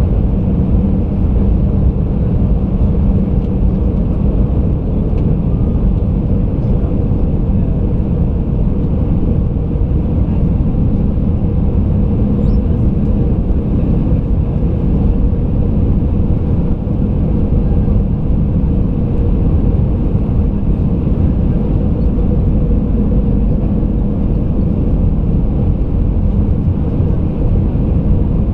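Steady loud rumble of an Airbus A320 heard inside the passenger cabin: engine and airflow noise with a faint constant hum, unchanging throughout.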